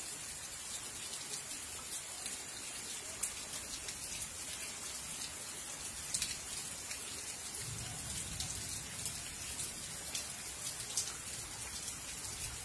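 Rain falling steadily, with scattered individual drops hitting close by and a short low rumble about eight seconds in.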